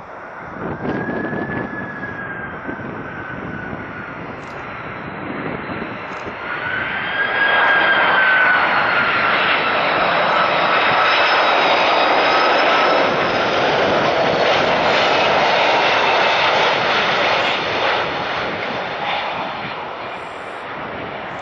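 An Airbus A330-300's twin GE CF6-80E1 turbofans on landing approach, passing close by: a jet rush with a whine that slides slowly down in pitch. It grows loud about seven seconds in and eases off over the last few seconds.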